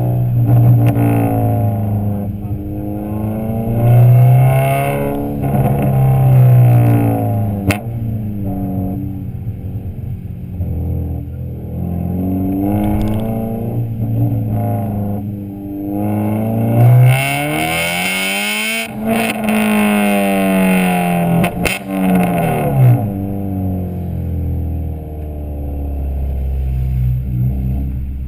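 Honda B16A2 1.6-litre VTEC four-cylinder breathing through a Skunk2 Alpha header, decat pipe and Skunk2 Megapower R exhaust, revving up and dropping back again and again. The highest, hardest rev comes a little past halfway.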